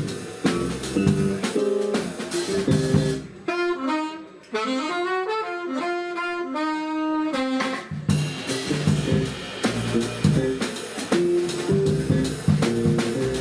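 A jazz quintet playing with saxophone, drum kit and bass. For about four seconds in the middle the drums and bass drop out and a lone melodic passage carries on. Then the full band comes back in.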